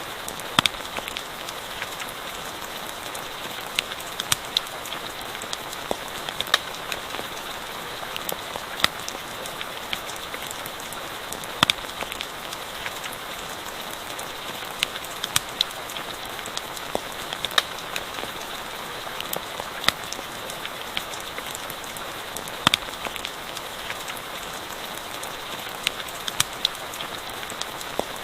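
Steady rain hiss with sharp, irregular pops and crackles of a wood fire scattered throughout.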